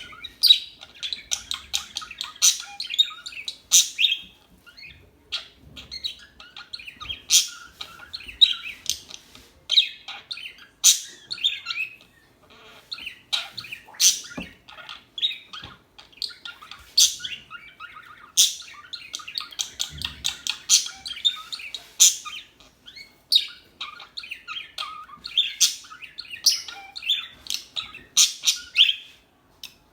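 Budgerigars chirping and chattering in a near-continuous stream of short, sharp chirps, with a few brief lulls.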